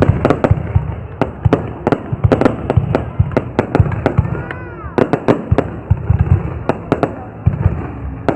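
Fireworks going off: rapid, irregular sharp bangs and cracks, several a second, over a low rumble of booms, with a brief falling whistle about four and a half seconds in.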